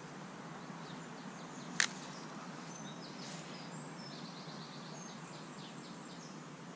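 Birds singing and chirping against a steady outdoor background hiss, with a run of quick repeated high notes in the middle. A single sharp click stands out about two seconds in.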